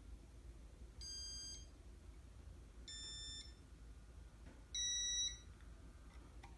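Casablanca ceiling fan's electronic beeper sounding in demo mode: three separate half-second beeps about two seconds apart, the last one the loudest.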